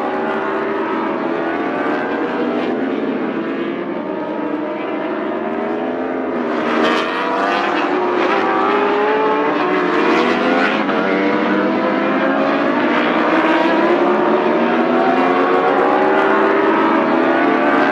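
Several racing motorcycle engines at high revs, their pitch rising and falling as bikes accelerate, shift and pass. A harsher, noisier stretch comes in the middle, and the sound gets slightly louder after it.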